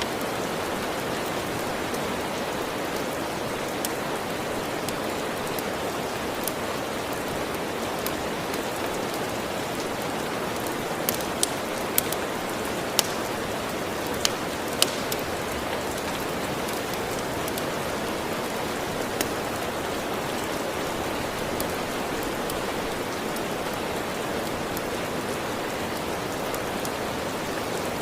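Steady rain, with scattered sharp pops from a crackling wood fire, several close together in the middle.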